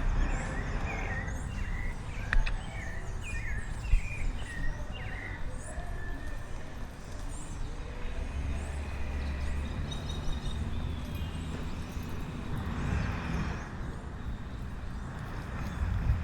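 Birds chirping in short, quick calls over a steady low rumble of outdoor noise, with two sharp knocks in the first few seconds.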